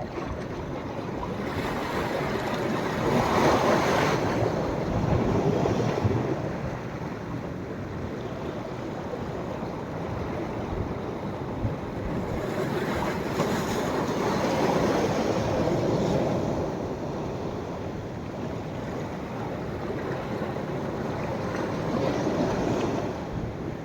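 Sea waves breaking and washing up a beach on a rising tide: a steady rush of surf that swells three times, each swell lasting a few seconds before it ebbs, with some wind on the microphone.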